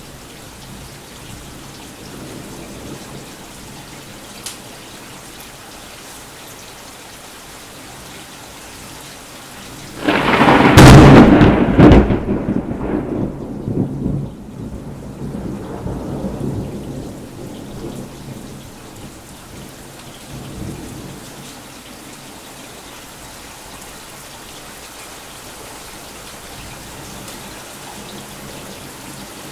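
Steady rain falling, then about ten seconds in a sudden, very loud thunderclap from a nearby lightning strike: a sharp crack followed by rumbling that dies away over several seconds.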